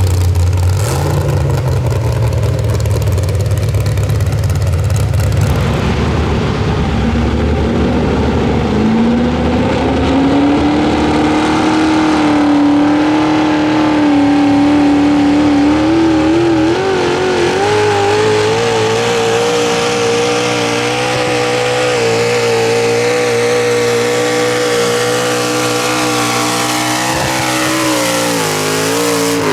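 Pro Stock mini truck engine at full throttle under the load of a pulling sled. The revs climb steadily, hold high and steady, then drop sharply near the end as the throttle comes off.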